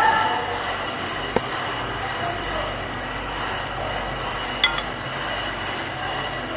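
Steady engine-room machinery noise with faint steady tones, broken by a light click about a second and a half in and a sharp metallic clink about four and a half seconds in.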